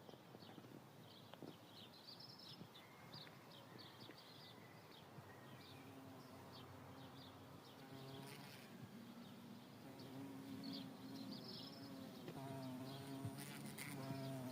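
A bee buzzing in flight, a steady hum that sets in about six seconds in and grows louder toward the end. Faint, short high chirps sound over it during the first half.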